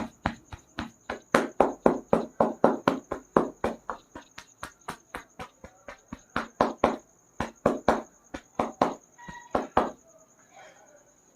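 Rhythmic slapping of a barber's percussive hand massage, sharp hand strikes about four a second, with a few softer stretches, stopping about ten seconds in. A steady high-pitched tone runs underneath.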